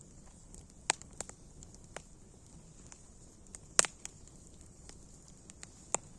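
Wood fire crackling: sharp pops and snaps scattered over a steady hiss, the loudest pops about a second in, near four seconds and just before the end.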